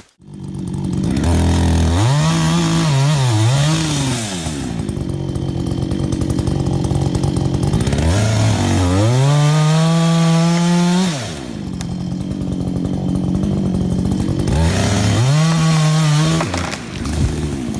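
A chainsaw running at high revs and cutting into wood, three times. Each time the engine note sags under the load of the cut and then climbs back, with steady sawing noise in between.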